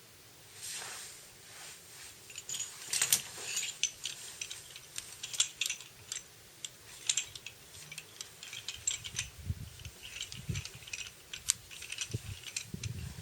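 Small metal tools and parts clinking and rattling in irregular clicks, with a few dull low knocks in the last few seconds.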